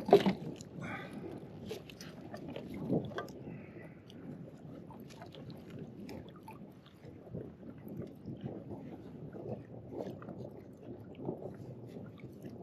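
Irregular crackling and small knocks of rod, reel and kayak handling while a hooked trout is being fought, with a sharp knock at the start and a smaller one about three seconds in.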